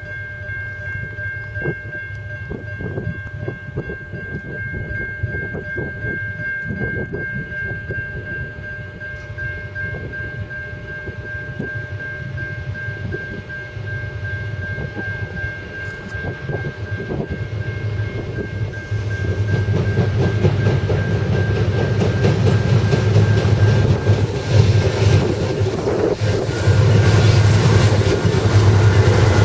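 Approaching CN freight train led by diesel locomotives: a steady horn chord sounds in the distance for the first half or so. The deep diesel rumble grows and becomes loud in the last third as the lead locomotives arrive and roll past.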